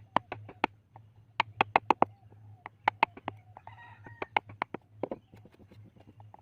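Wood-carving chisel being struck into wood: a quick, irregular run of sharp taps, some in tight clusters, over a steady low hum.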